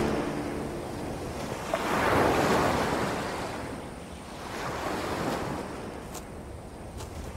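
Ocean surf: waves breaking and washing up the beach, swelling about two seconds in and again around five seconds. A couple of faint clicks near the end.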